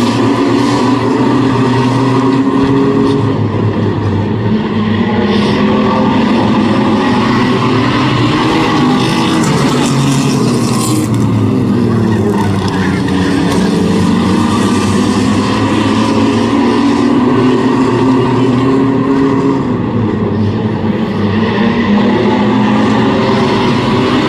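Several Renegade-class race trucks running laps on a short oval, their engines rising and falling in pitch as they brake into and power out of the turns, with a clear dip and climb about halfway through.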